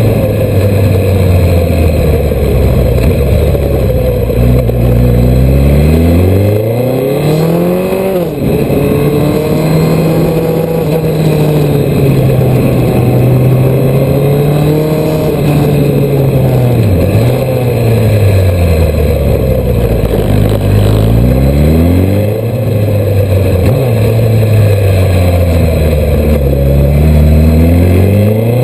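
Suzuki GSX1300R Hayabusa's inline-four engine under way, its revs climbing and falling again and again as the throttle is opened and closed. There is a sharp drop in revs about eight seconds in, then it holds steady, sags, and builds again near the end.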